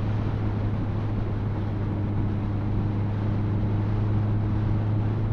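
Motorcycle engine running at a steady cruising speed under wind and road noise while riding: a steady low hum, with a fainter higher tone joining about two seconds in.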